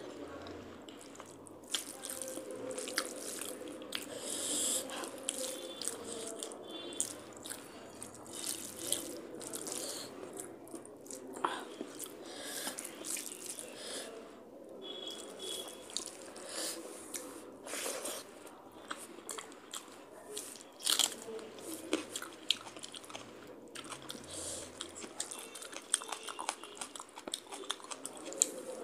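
Close-up chewing and wet mouth sounds of someone eating rice and curry by hand, with irregular sharp lip smacks and clicks and the squish of fingers mixing the rice.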